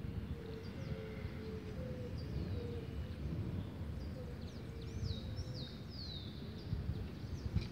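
Outdoor ambience: a steady low rumble with birds chirping, including a run of short falling chirps a little past the middle.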